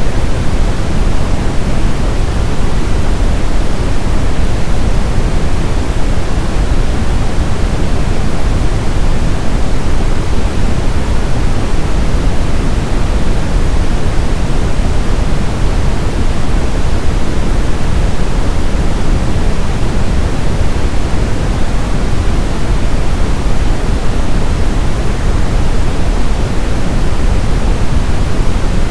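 Steady brown noise: a constant, even hiss-like rumble strongest in the lows and falling off toward the highs, with no events or changes.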